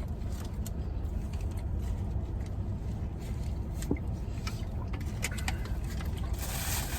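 Steady low background rumble with scattered faint clicks, and a brief rustle near the end.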